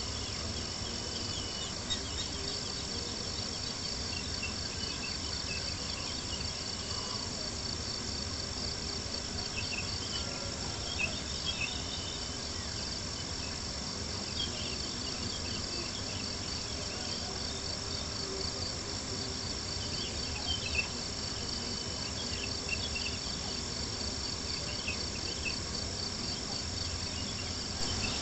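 Crickets chirping steadily in a high, fast-pulsing chorus, with scattered small pops and crackles from a campfire now and then.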